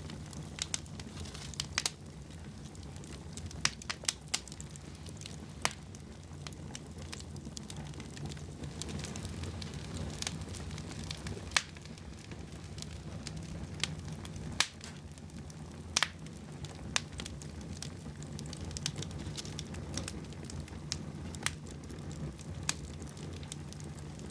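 Wood fire burning in a fireplace: irregular sharp crackles and pops, a few a second at most, over a steady low rumble of the flames.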